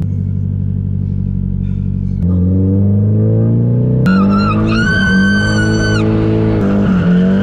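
Nissan 240SX engine running steadily, then revving up about two seconds in, its pitch climbing under load. A high squeal rides over it for about two seconds in the middle.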